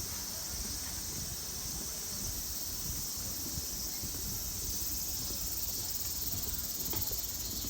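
Summer insects droning, a steady high-pitched buzz, over a low rumble.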